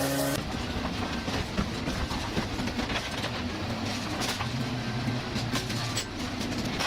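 Excavator working: its diesel engine runs steadily under a continuous rattle and clatter of metal.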